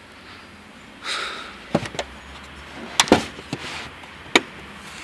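A handful of sharp clunks and knocks with brief rustling, from panels and fittings in a car's trunk being handled. The loudest knocks come about three seconds in and near the end.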